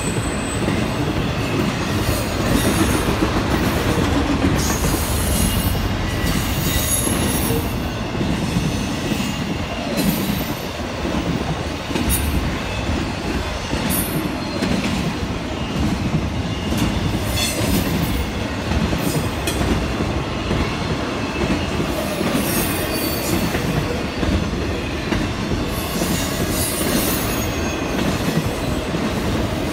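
Intermodal freight train's flatcars, loaded with truck trailers and containers, rolling past close by: a steady rumble of steel wheels on the rails, with repeated brief high wheel squeals and clicks.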